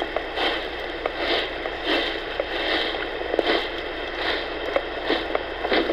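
Footsteps on a trail at a steady walking pace, about three steps every two seconds, over a steady hiss.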